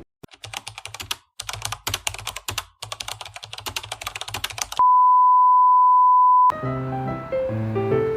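Fast typing on a computer keyboard, a quick run of clicks for about four and a half seconds. It is followed by a steady high beep held for under two seconds, the loudest sound in the stretch, and then music with piano-like notes starts near the end.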